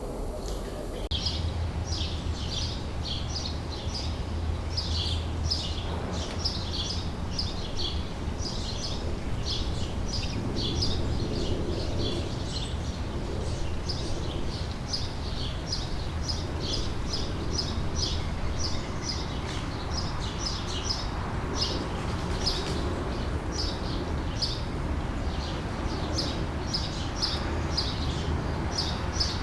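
Birds chirping in quick runs of short, high notes, repeating throughout over a steady low rumble.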